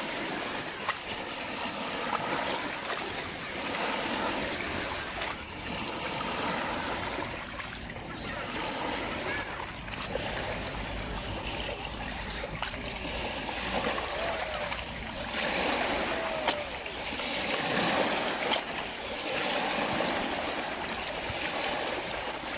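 Lake water lapping and splashing in small waves, swelling and fading every few seconds.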